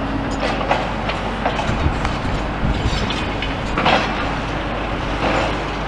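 Irregular clanks and knocks of a demolition excavator working among rubble, over a steady low rumble of traffic.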